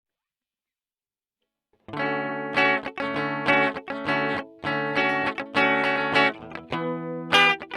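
Ibanez RG 350M electric guitar played through a clean tone: after about two seconds of silence, chords are struck in a quick, rhythmic pattern, ringing with bright overtones.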